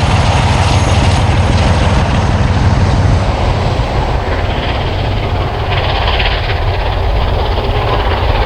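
Train passing close at speed, with wheels rumbling on the rails and a steady low engine drone from Class 47 diesel locomotive 47813 pushing hard at the rear.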